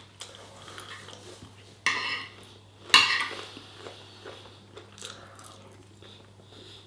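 Cutlery clinking and scraping on a plate during a meal, with two sharper clinks about a second apart near the middle and lighter taps around them.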